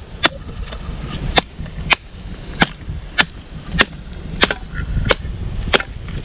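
Knife being batoned through wood: a wooden baton striking the blade's spine in a steady run of about nine sharp knocks, roughly one every 0.6 s.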